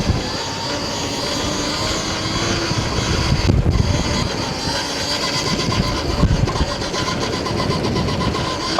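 Wind buffeting the microphone of a helmet camera while riding a Stomp Haywire electric dirt bike, with a faint, thin whine from the bike's electric motor over the rumble.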